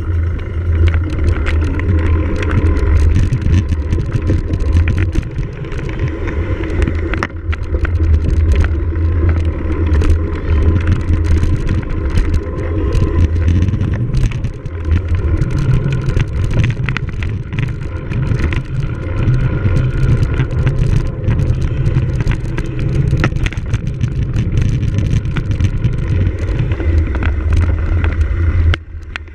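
Cyclocross bike ridden hard over a rough course: a steady low rumble of tyres and wind with many sharp rattling clicks from the bike. The noise drops off abruptly near the end.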